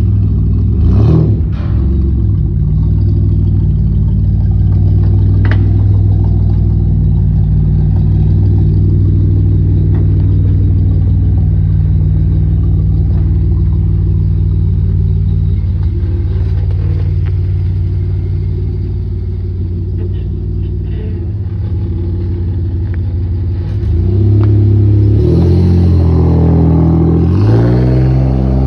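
Jeep Wrangler engine and exhaust idling with a deep, steady note, blipped briefly about a second in, then revved up and down several times near the end.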